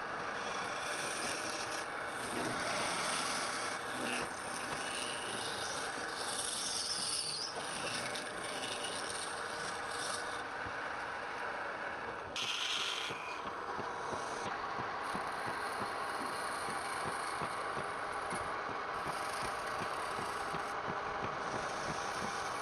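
Wood being worked on a running lathe: a steady rubbing, rasping noise over the machine's hum, with short harsher scraping bursts, the strongest about twelve and a half seconds in.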